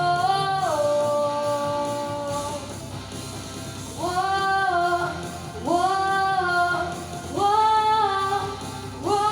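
Young girl singing solo over an accompaniment. A long held note steps down about a second in, then three more short phrases each slide up into a held note, with no clear words.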